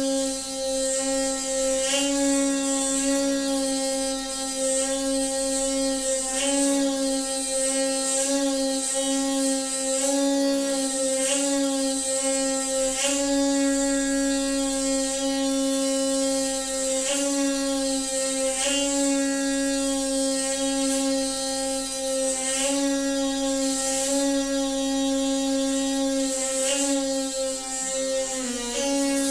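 Noisy water pipe humming: a steady buzzing drone with a clear pitch and many overtones, with short clicks and brief pitch wobbles recurring every second or two.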